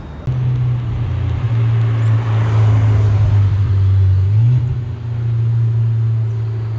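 Ferrari sports car engine running, a loud steady low drone that begins abruptly a moment in and steps up slightly about four and a half seconds in.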